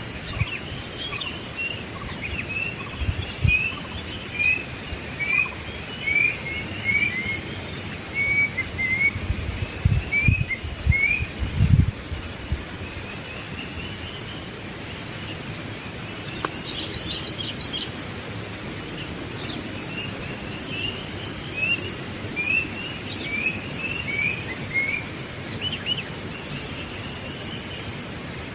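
Wild birds chirping in quick runs of short repeated notes, in two bouts with a pause between, over a steady high-pitched drone of insects. A few low thumps come about ten seconds in.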